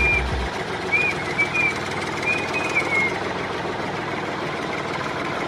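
Steady engine-like running noise, with a few short, high chirps in the first three seconds.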